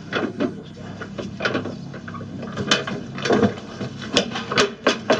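Irregular clunks, knocks and rubbing as the plastic washing-machine tub is handled and worked on.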